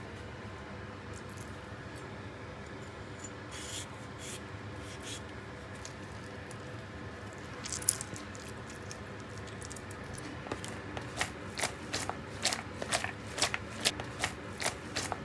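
Kitchen handling sounds over a steady low hum: a few scattered clicks and light scraping, then, from about two-thirds of the way through, a run of regular light taps, about two to three a second.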